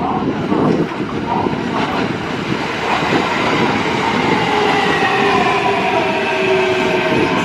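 Kintetsu Kyoto Line electric train running along the platform, with rumbling and clatter. From about three seconds in, a whine of several tones sets in and falls slowly in pitch.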